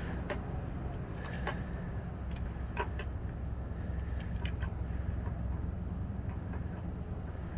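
Steady low hum of an idling vehicle engine, with a dozen or so short, sharp clicks and taps at irregular intervals.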